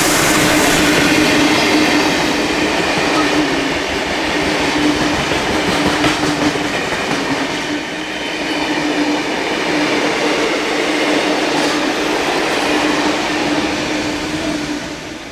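Train running past on the rails: loud, steady rolling of wheels with a continuous hum over it, falling away near the end.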